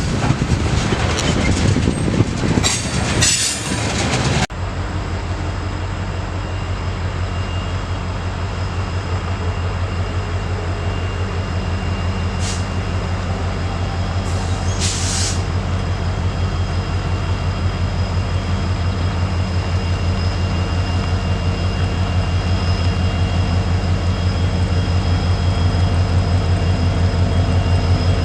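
Train passing with loud rolling noise and some wheel squeal for the first few seconds, which cuts off abruptly. After that comes a steady, rapid low throb with a faint high whine, typical of a diesel locomotive running, slowly growing louder.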